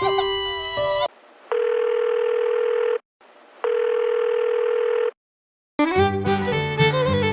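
Telephone ringback tone heard down a phone line: two long, steady beeps of about a second and a half each, with a short gap between them. Fiddle music plays before and after.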